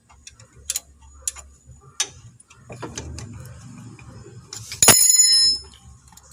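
Metal parts or hand tools clicking and knocking a few times, then a sharp metallic clang about five seconds in that rings briefly with a bell-like tone.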